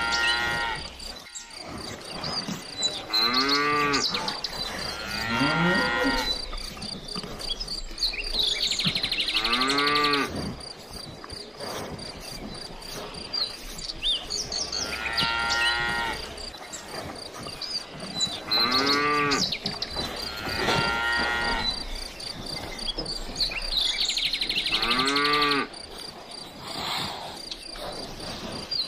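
Cattle mooing, one call after another every couple of seconds, each call rising and falling in pitch, over a steady high-pitched trill.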